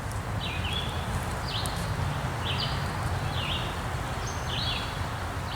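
A bird calling over and over, a short high call about once a second, over a steady low rumble.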